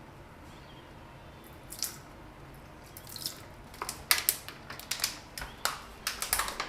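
Irregular sharp clicks and snaps from plastic and packaging being handled while a refrigerator is unboxed. There is one click about two seconds in, then from about three seconds in the clicks come quickly and grow denser.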